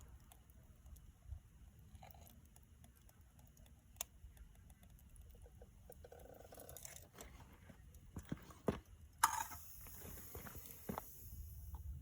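Faint clinks and knocks of metal as the crucible and ingot mold are handled for a zinc pour, with a short hiss about nine seconds in, over a low steady rumble.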